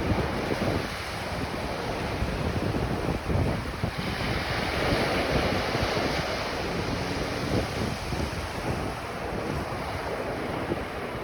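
Ocean surf breaking and washing up a beach, swelling louder about four to seven seconds in, with wind buffeting the microphone in low rumbles.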